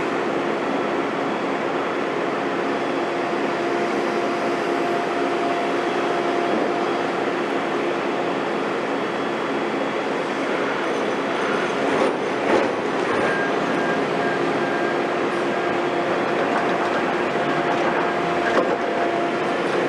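Heavy construction machinery running steadily, with a few short sharp knocks partway through.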